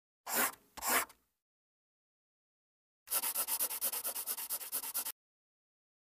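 Pencil scratching on paper: two short strokes, then a quick scribble of about ten strokes a second lasting about two seconds.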